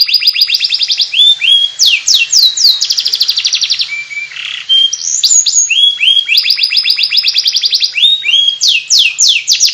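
Domestic canary singing in rapid trills of repeated falling notes, the chattering 'ngeriwik' song. There is a brief lull about four seconds in, then the trills resume.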